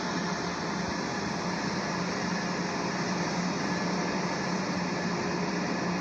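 Steady mechanical drone with a low hum, unchanging throughout, typical of an idling train or a station's ventilation machinery.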